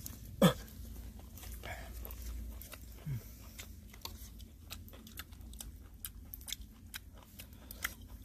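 Close chewing and crunching of fried chicken gizzards: a run of small, sharp crunches and clicks, with a brief voiced sound about half a second in and another about three seconds in.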